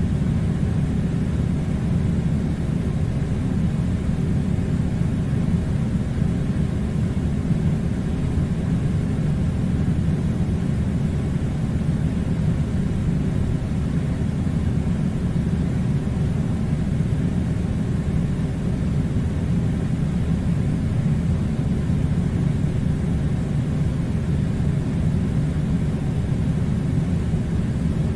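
A steady, unchanging low rumbling noise with no breaks or changes.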